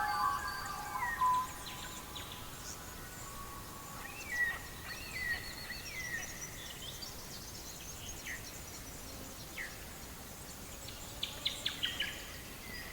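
Songbirds chirping: several short whistled notes and quick falling sweeps, then a rapid run of notes near the end, over a soft steady hiss.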